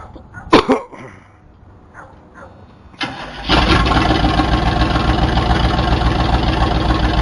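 A sharp loud clunk about half a second in. Then, around three seconds in, the 1977 Chevrolet C10's 350 V8 cranks briefly, catches and runs loudly with an even, rapid pulse, its exhaust unhooked.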